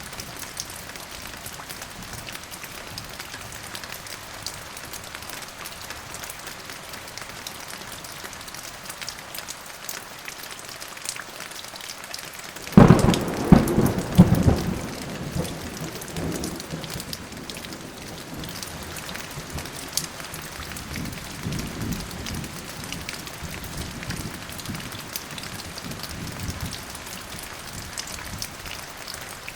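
Steady rain falling, with a sudden thunderclap about halfway through that cracks loudly and rolls on for a few seconds, then a fainter rumble of thunder later on.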